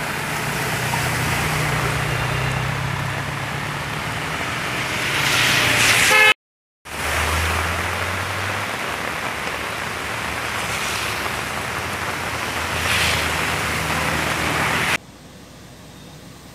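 Heavy rain and flowing floodwater with a jeep's engine running as it drives through the flooded street, throwing up spray. The sound swells about six seconds in, cuts out for half a second, then rain and engine noise resume; near the end it drops abruptly to a much quieter wet-road scene.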